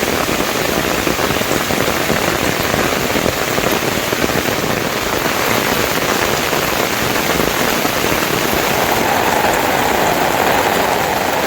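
Heavy rain falling: a loud, steady, dense hiss that stops abruptly at the end.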